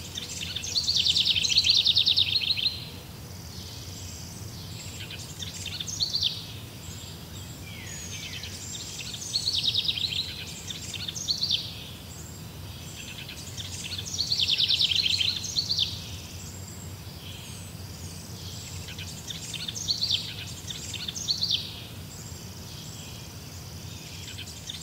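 Birdsong: a songbird repeats a short, fast-trilled phrase every few seconds over a steady low hum.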